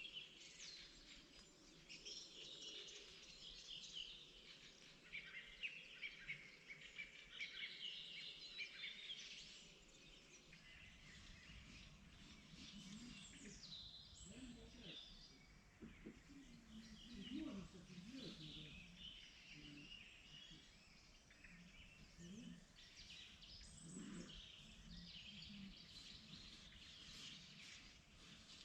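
Faint chorus of several songbirds singing and chirping in spring, thick with overlapping trills for the first ten seconds, then thinning to scattered calls. A few short, low sounds come through in the middle.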